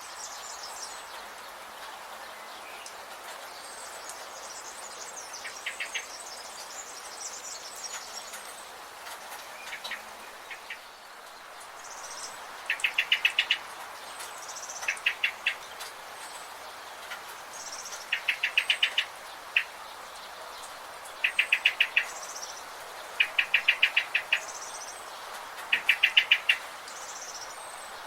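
Forest birds calling: thin high chirps throughout, and from about halfway on one bird giving short, loud rattling series of rapid notes every two to three seconds. A steady hiss, like insects, runs underneath.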